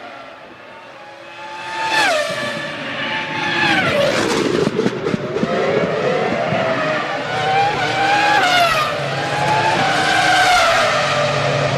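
Formula One cars' 3-litre V10 engines at racing speed. The pitch drops sharply about two seconds in, as under braking and downshifting, then rises and falls again through gear changes.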